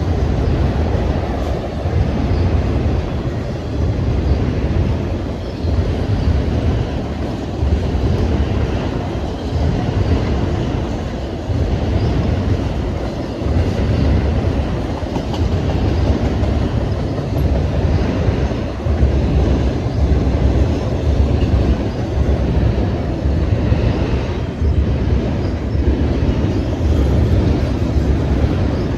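Freight train rolling past: a steady, loud rumble of cars and wheels on the rails, pulsing a little in the low end.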